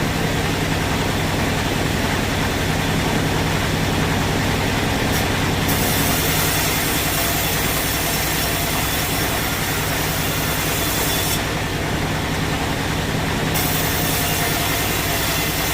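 Sawmill machinery running steadily with a low engine-like hum, and a high hiss that cuts in about six seconds in, drops out for about two seconds near twelve seconds, then returns.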